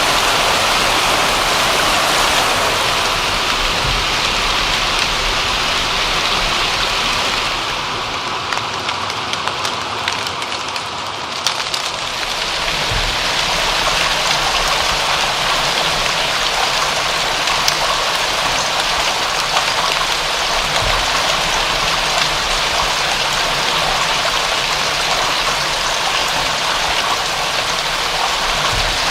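Steady rain falling in a dense, even hiss, with scattered individual drops ticking. The hiss softens briefly a third of the way in, then returns.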